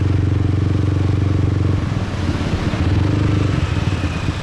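Motorbike engine running under the rider at a steady cruise. It eases off about two seconds in, picks up again briefly, then eases off once more near the end.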